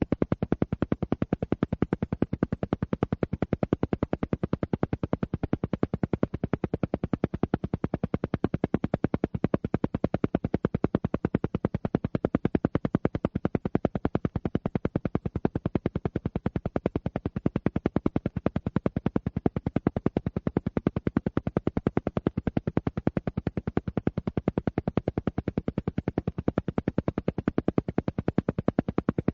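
An alpha-wave brainwave-entrainment track: a steady train of rapid, evenly spaced pulses, many per second, repeating without change. It works like an isochronic tone, pulsing at an alpha-wave rate meant to bring on relaxation.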